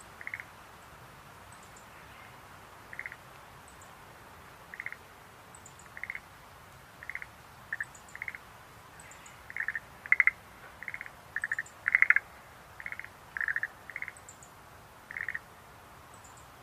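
Schlegel's green tree frogs calling: short trilled notes, one every second or so at first, then coming quicker and louder in the middle. Faint high chirps sound above them.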